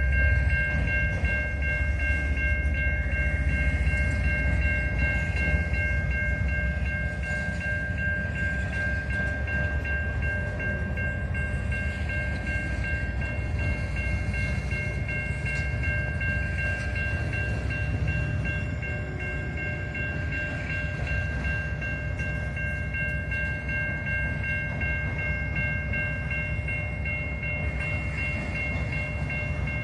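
A train rolling past with a steady low rumble that eases slightly after the first several seconds. Over it sits a steady high-pitched ringing made of several tones, unbroken throughout.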